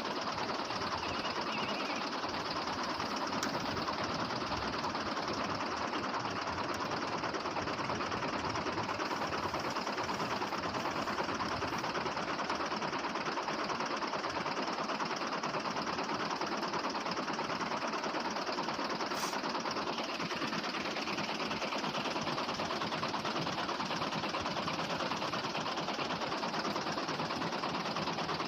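A small motor running steadily, most likely the miniature tractor's, with an even whir that keeps the same pace throughout.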